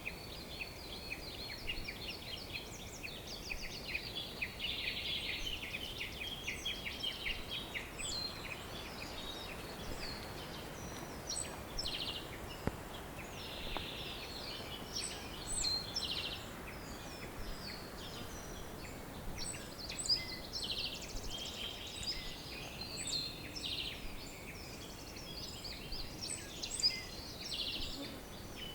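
Many birds chirping and singing at once, a dense chorus for the first several seconds, thinning to scattered chirps and short trills, over a faint steady outdoor hiss.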